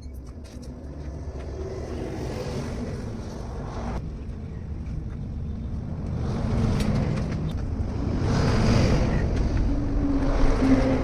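A motor vehicle engine running with a steady low rumble, swelling louder a few times.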